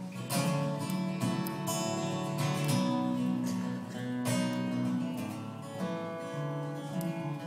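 Acoustic guitar being strummed in an instrumental break of a live country song, with chords ringing out and no singing.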